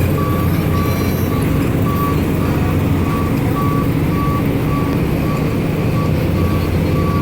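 Engine running steadily with a low rumble, while a high electronic warning beep repeats evenly about twice a second, like a vehicle's backup alarm.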